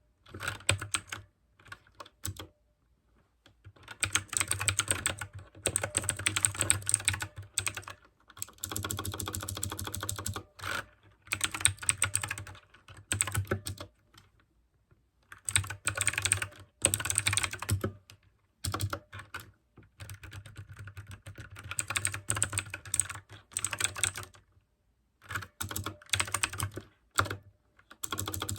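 Mechanical keyboard with clicky blue switches being typed on in fast runs of keystrokes, broken by brief pauses of a second or so.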